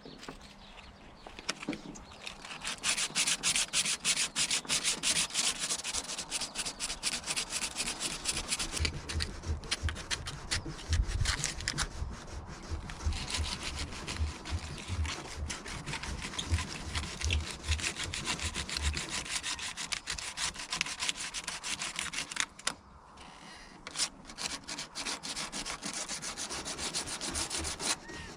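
Rapid back-and-forth abrasive rubbing strokes on a surface, with a short pause about 23 seconds in.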